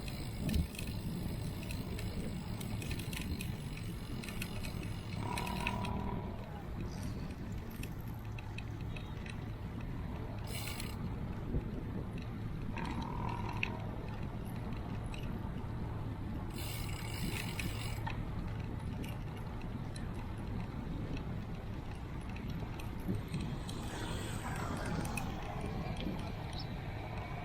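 Bicycle riding with a steady rumble of wind and road noise on the microphone, broken by several bursts of rapid ticking from the freewheel hub while coasting.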